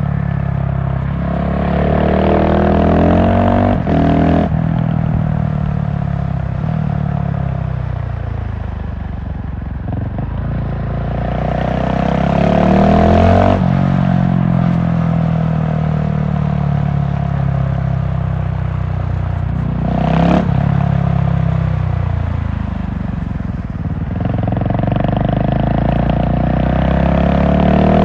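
GasGas SM700 supermoto's large single-cylinder engine accelerating and rolling off in turn: the engine note climbs, breaks off sharply at a gear change about 4 s, 13 s and 20 s in, then falls away as the throttle is closed, and climbs again near the end.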